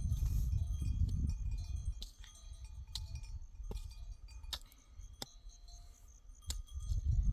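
Small bells on grazing livestock clinking irregularly as the flock moves, each strike ringing briefly. Wind buffets the microphone with a low rumble at the start and again near the end.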